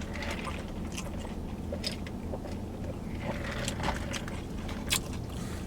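A person chewing a crispy chicken sandwich close to the microphone: soft wet mouth clicks and small crunches, with one sharper click about five seconds in.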